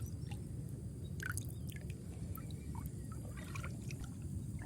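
Water splashing and dripping in short bursts as a gill net holding fish is handled and lowered into shallow water, over a steady low rumble.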